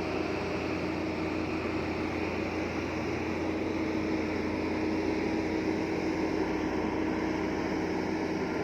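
Heavy earthmoving machine's diesel engine running steadily, with a constant hum and no break.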